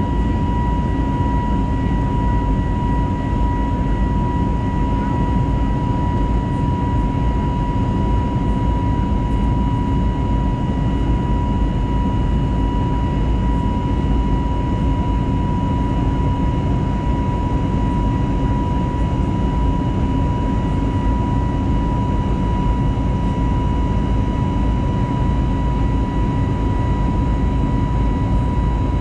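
Steady cabin noise of an Airbus A320neo in the climb after takeoff: an even engine and airflow rush with a thin, steady high whine over it.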